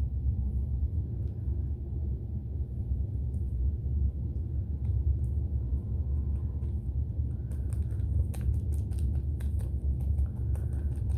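Hands kneading and squishing slime to work glitter in, over a steady low rumble. It ends in a rapid run of wet clicks and small pops.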